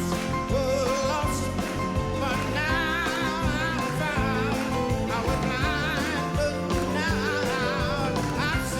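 Gospel song: a singer holding wavering, vibrato notes over a full backing band.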